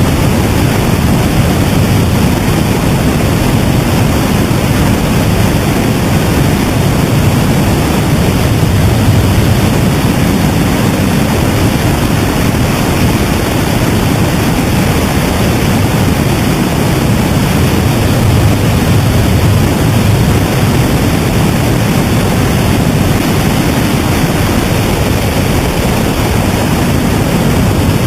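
Steady, loud rushing noise of a helicopter in flight, heaviest in the low end, with no changes.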